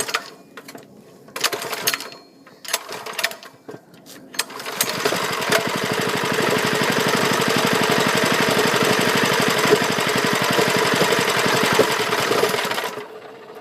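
Lifan 6.5 hp single-cylinder mini bike engine catching after a few clicks and knocks. It runs fast and steadily for about eight seconds, then drops off sharply near the end.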